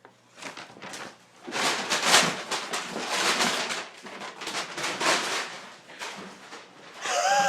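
A bag rustling and scuffling hard in repeated bursts, starting about half a second in, as a panicking cat thrashes about with its handle caught on her.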